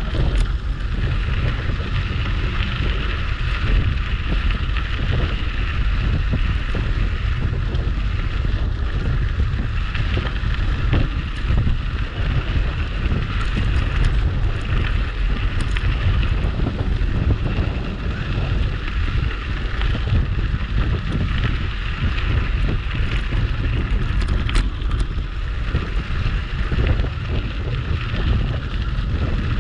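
Steady wind rushing over the microphone of a bicycle rider on the move, over a low rumble of tyres rolling on a sandy trail.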